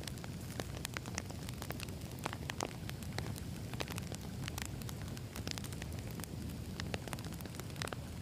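Wood campfire burning, with a steady low rumble and many irregular sharp crackles and pops from the burning logs.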